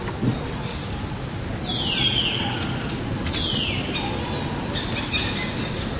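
A bird calling in forest: two short high calls that slide downward, about a second and a half apart, and a fainter one near the end, over a steady high hum.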